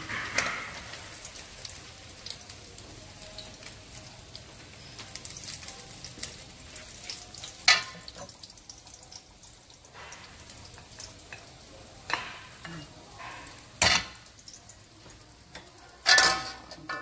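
Fu yung hai egg omelette frying in oil in a pan, with a steady sizzle, while a spatula and ladle scrape and knock against the pan. Sharp clatters come at about eight and fourteen seconds, and the loudest near the end.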